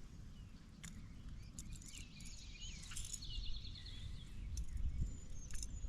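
Wild birds chirping and calling, with a quick trill about three seconds in and a high whistled call near the end, over a low steady rumble; a few faint clicks.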